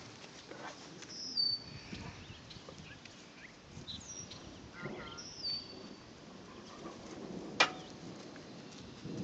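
Birds calling outdoors: three short high whistles, each falling in pitch, with a few fainter chirps between them. A single sharp click near the end is the loudest sound.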